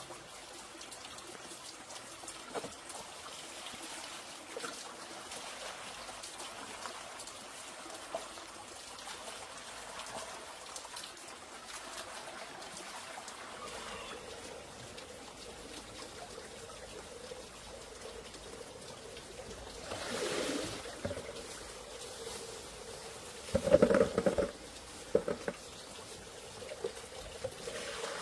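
Water trickling steadily. A brief loud knock with a short ring sounds near the end.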